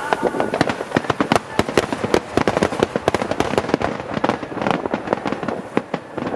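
Fireworks going off in rapid succession: a dense run of sharp crackling reports, many each second, thinning a little near the end.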